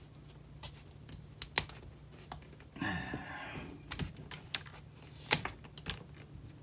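Scattered light clicks and taps at irregular intervals, with a brief rustling sound about three seconds in, over a faint steady low hum.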